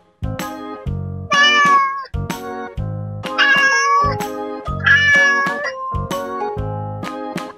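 Children's background music with a steady beat, with three cat meows mixed in over it, each lasting under a second.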